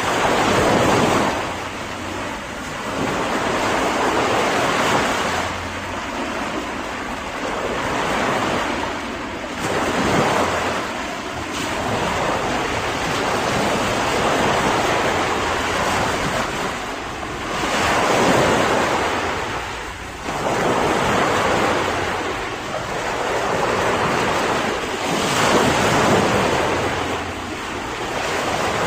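Sea waves breaking and washing on the shore, a steady rush of surf that swells and fades every few seconds, with the strongest surges near the start, about two-thirds of the way in and near the end.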